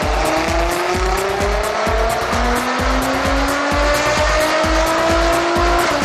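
Nissan GT-R R35's 3.8-litre twin-turbo V6, tuned with downpipes and a full exhaust, pulling hard under load on a dyno: the engine note climbs steadily, drops back twice as it changes gear, and cuts off just before the end. Backing music with a steady beat plays over it.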